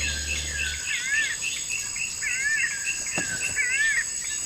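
Tropical forest ambience: a steady high insect drone with a run of repeated, wavering animal calls over it, about one call a second.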